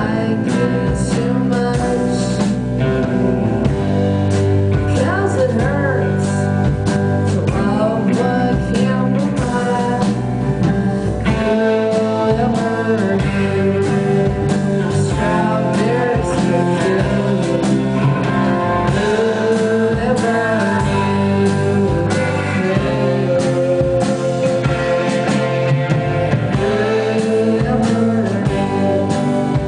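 A live band playing a rock song: a singer over guitar, the music running steadily and loud.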